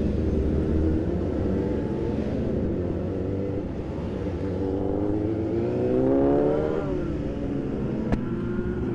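Sport motorcycle engines running, with one revving up from about five seconds in and dropping back near seven seconds. A single sharp click a little after eight seconds.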